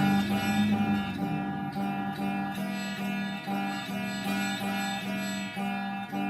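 Guitar playing a steady, evenly paced run of plucked notes as instrumental accompaniment, with no singing.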